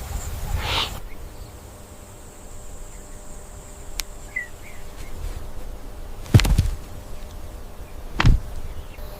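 Two loud, sudden thumps about two seconds apart, over a faint steady background with a single sharp click before them.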